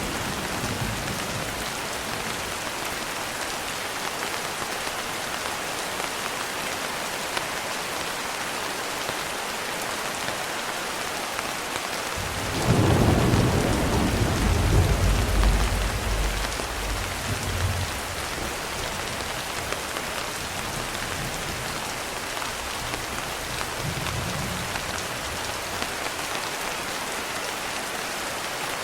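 Steady rain falling, an even hiss throughout, with a roll of thunder breaking in suddenly about halfway through, rumbling for around five seconds and then dying away; fainter low rumbles come near the start and again later.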